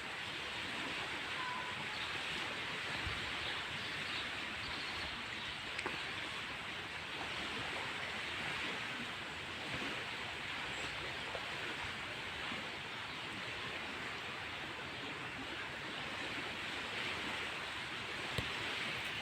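Steady outdoor rushing noise, an even hiss with a few faint knocks near the end.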